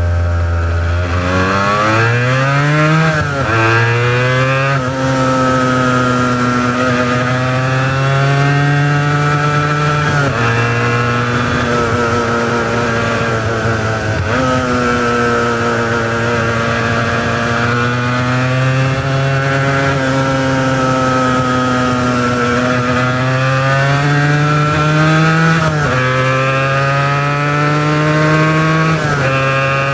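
Honda NS400R's three-cylinder two-stroke engine, on its original mufflers, pulling hard from low revs with two quick upshifts about three and five seconds in. It then runs at a fairly steady pitch that eases up and down, with a few more drops in pitch like further gear changes.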